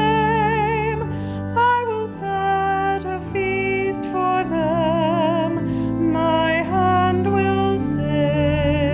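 A woman singing a slow song with vibrato on held notes, over steady sustained accompaniment.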